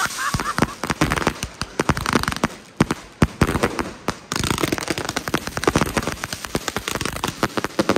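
Fireworks going off: a rapid series of sharp shots and reports. There is a thinner patch about three seconds in, then a dense run of shots starts suddenly and carries on.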